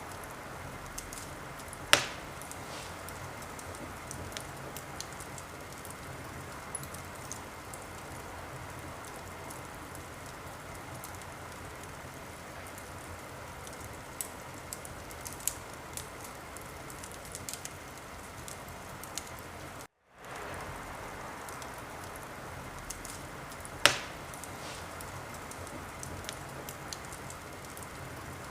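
Wood fire crackling in a fireplace: a steady hiss full of small scattered crackles, with two loud pops, one about two seconds in and one near the end. The sound cuts out for a moment about two-thirds through.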